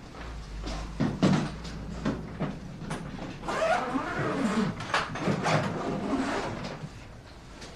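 Household handling sounds: a couple of sharp knocks about a second in, then a longer stretch of sliding and rustling, like doors or cupboards being worked.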